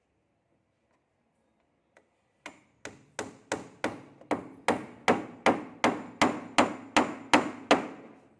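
Hammer blows in a steady run of about fifteen evenly spaced strikes, nearly three a second, growing louder, each with a brief ringing tail, then stopping.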